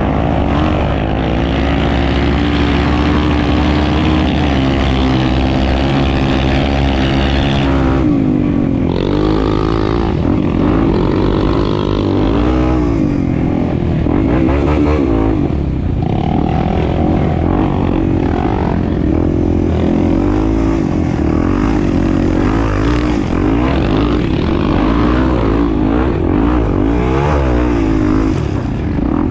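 Honda Tornado 250 single-cylinder four-stroke motorcycle engine running while riding, its pitch rising and falling repeatedly with throttle and gear changes, easing off sharply about eight seconds in.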